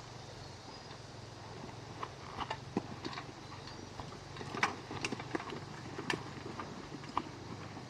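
Irregular light clicks and knocks, a dozen or so and the loudest about halfway through, over a steady low hum.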